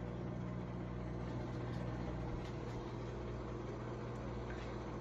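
Microwave oven running with a bag of popcorn heating inside: a steady low hum, with a few faint ticks.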